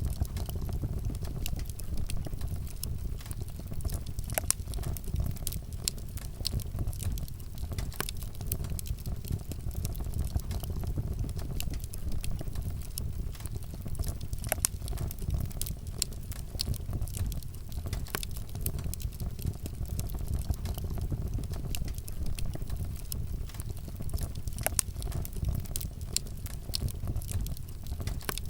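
Wood campfire burning, with frequent sharp crackles and pops of the wood scattered irregularly over a steady low rumble.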